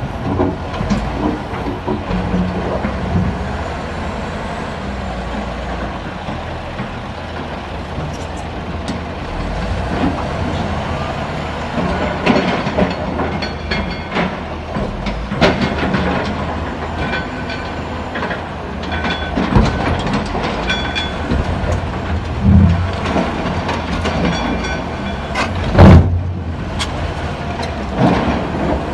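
Heavy earthmoving machinery working: a steady engine with repeated metallic clanks and knocks and short high squeals in the middle, the loudest a heavy thump near the end.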